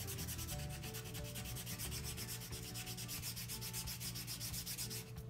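A strip of belt-sander sandpaper rubbed quickly back and forth along the handle of a soft-wood carved spoon, several scratchy strokes a second, smoothing away the knife lines left from carving. The sanding stops near the end.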